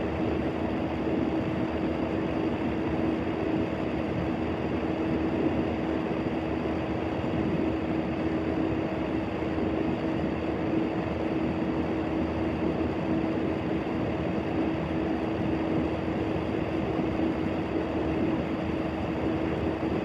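A steady, unchanging mechanical-sounding drone: a rumbling noise with a constant hum held at one pitch throughout.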